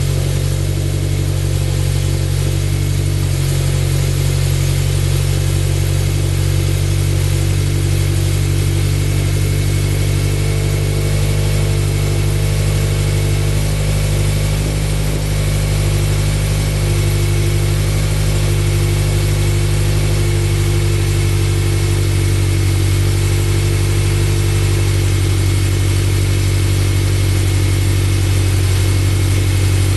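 Scion FR-S flat-four boxer engine idling steadily on its first start after the fitting of an aftermarket header, a high-flow cat pipe and a TRD exhaust.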